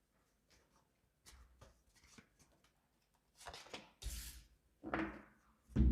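Tarot cards being handled, heard as soft rustles and light taps, with a few louder rustles in the second half.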